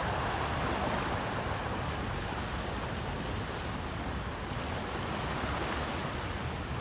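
A steady rushing noise, even and unbroken, with no distinct calls or strikes in it.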